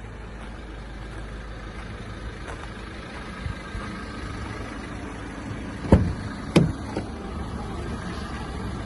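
Renault Master 2.3 four-cylinder diesel engine idling steadily. About six seconds in come two sharp knocks less than a second apart, the loudest sounds here, with a couple of fainter knocks around them.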